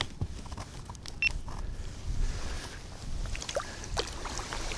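Scattered light clicks and knocks of gear being handled in a kayak, over a low rumble of wind on the microphone, with one brief high blip about a second in.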